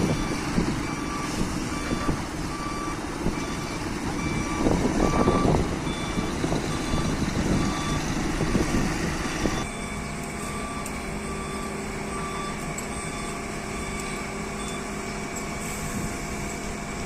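A heavy truck's reversing alarm beeping about once a second over the rumble of its running engine. About halfway through, the engine noise drops away while the beeping continues.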